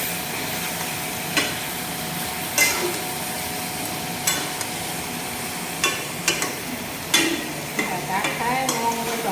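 Chicken curry frying and sizzling in a pan while a spatula stirs it, knocking sharply against the pan about six times at irregular intervals.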